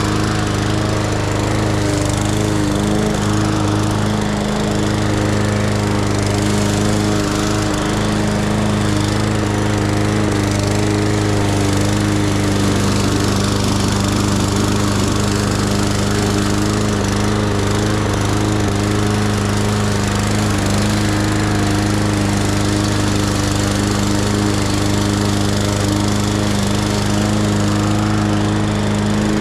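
Petrol lawn mower engine running steadily under load while cutting grass.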